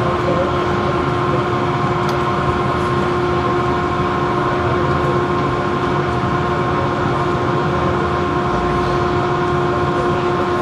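A steady mechanical drone with a constant pitched hum that does not change in pitch or level.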